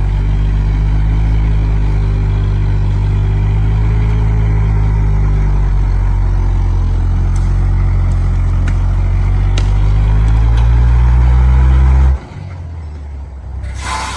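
Heavy diesel engine of a logging truck or excavator working hard under steady load, slowly getting louder, then throttling back abruptly about twelve seconds in. A short hiss of released air follows near the end.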